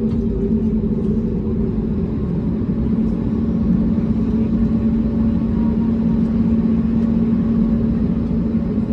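Airbus A320neo jet engines heard from inside the cabin: a steady loud rumble with a constant low hum.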